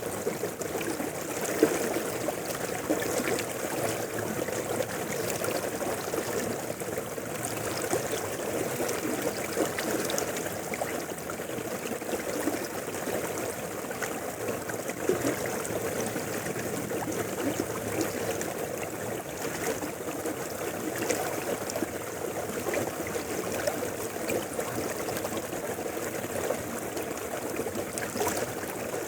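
Mountain river flowing steadily: a continuous rush of water with a fine bubbling texture.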